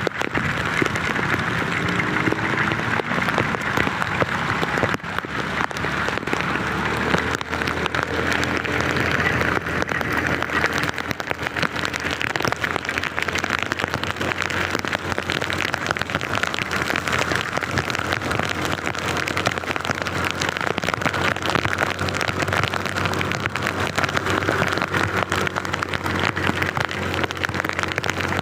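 Heavy rain falling steadily, a dense patter of drops, with a faint low vehicle hum beneath it.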